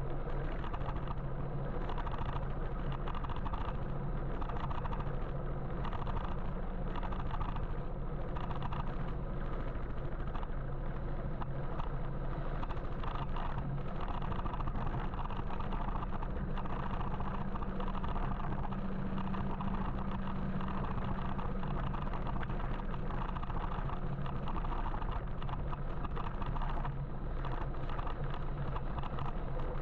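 Steady road and traffic noise from a moving electric motorbike: tyre rumble, passing vehicles and a low steady hum.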